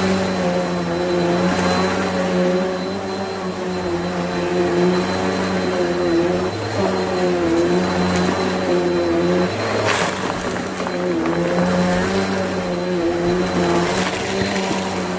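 Bissell vacuum cleaner running steadily, its motor pitch dipping and recovering every second or two. A brief sharp knock about ten seconds in.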